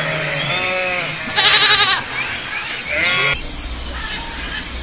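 Sheep bleating: several quavering bleats, the loudest about one and a half seconds in. The bleats stop abruptly a little over three seconds in, and a low steady hum takes over.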